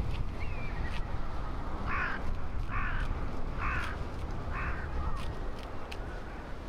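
A crow cawing four times, a little under a second apart, over a steady low rumble.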